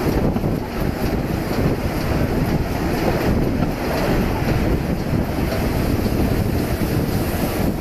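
Narrow-gauge steam train carriage running steadily along the track, with wind buffeting the microphone held out of the carriage window.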